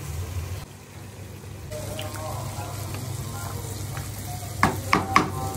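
Food sizzling and bubbling in a steel cooking pot on the stove, with a steady low hum, then three sharp knocks near the end as the spatula strikes the metal pot.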